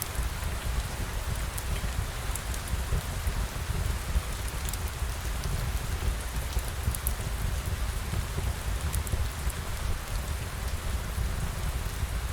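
Steady rain falling: an even hiss over a low rumble, with scattered light ticks of drops.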